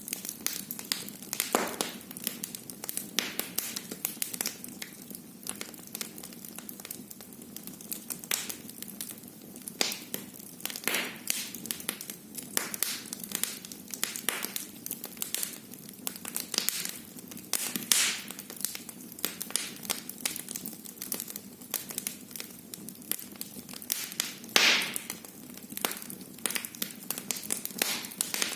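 Wood fire burning in a fireplace, crackling with irregular pops and snaps, a few louder ones now and then.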